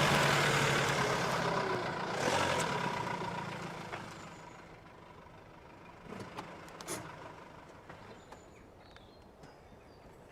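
A motor vehicle's engine and road noise, loud at first and fading away over about four seconds, followed by a few faint clicks and knocks.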